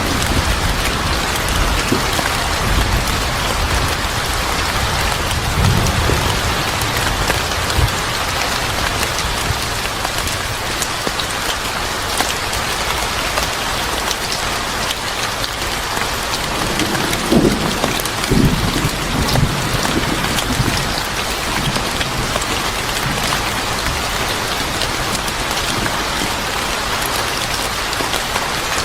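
Steady heavy rain falling, with low rumbles of thunder near the start and again about two-thirds of the way through.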